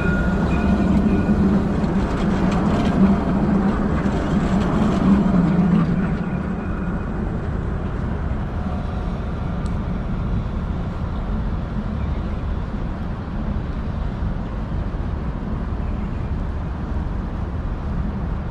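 Dubai Tram running, a steady rumble with a low hum and faint whine that are stronger for the first six seconds or so, then settle to a quieter, even running noise.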